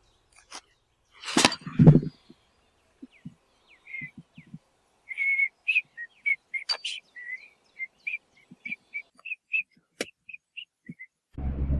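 Bird chirping: a run of short, high, whistled notes at irregular intervals. Before it comes a short loud noise about a second and a half in, and near the end a steady low drone starts.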